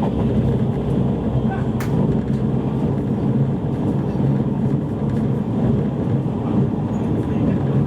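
Steady interior running noise of a JR East E653 series electric train at speed: the low rumble of wheels on the rails and the car body, with a faint click about two seconds in.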